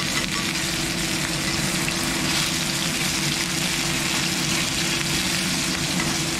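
Tofu pieces shallow-frying in oil in a stainless steel pan: a steady, even sizzle.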